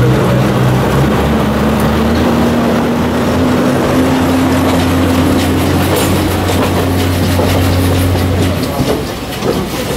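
The diesel engine of a Botchan Ressha replica steam locomotive running as the little train pulls away, a steady low drone whose pitch climbs slightly over the first few seconds, with the wheels rolling over the rails. The engine drone stops near the end as the train draws away.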